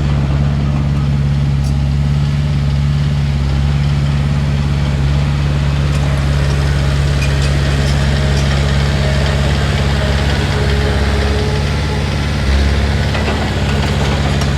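Heavy diesel engine of an earthmoving machine running steadily at an even speed, its note wavering briefly about two seconds before the end.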